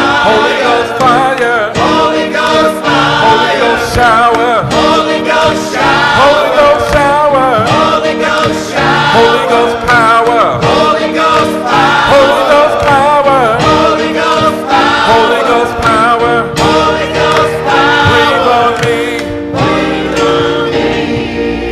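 Gospel song with choir singing and instrumental backing, the voices carrying wordless or indistinct lines; the voices thin out near the end, leaving the accompaniment.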